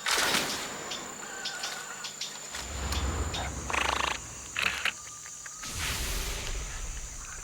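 Giant river otters feeding in the water: a few short noisy bursts of splashing and chewing, with a faint wavering call early on, over a steady high-pitched insect drone.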